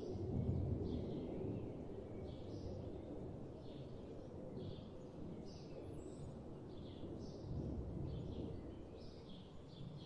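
Small songbirds chirping, many short high calls in quick succession, over a steady low background rumble that swells about half a second in and again near eight seconds.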